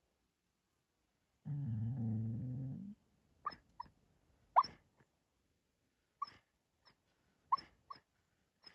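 A sleeping dog vocalising while dreaming: a low growl lasting about a second and a half, then a string of short, high yips and whimpers.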